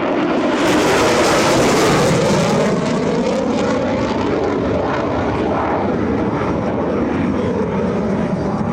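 F-35C Lightning II's Pratt & Whitney F135 jet engine on a high-speed low pass. A loud jet rush peaks about one to two seconds in, then the engine noise carries on steadily as the jet moves away.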